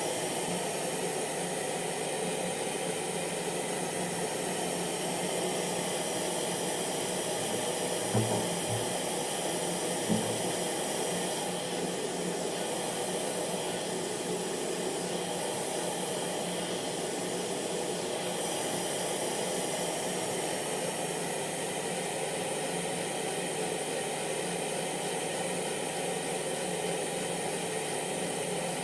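Hair dryer running steadily: a continuous rush of blown air over a steady motor hum. There are two brief low knocks about eight and ten seconds in.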